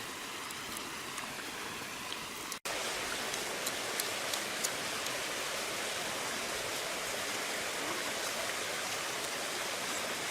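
Steady rushing of water, an even hiss with a few faint ticks; it cuts out for an instant about two and a half seconds in and comes back a little louder.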